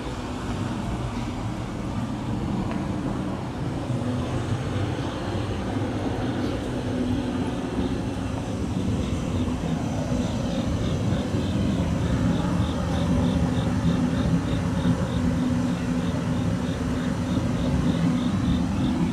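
City street traffic: a steady rumble of vehicles with an engine hum that grows louder toward the end. A rapid high-pitched beeping, about three a second, starts about a third of the way in.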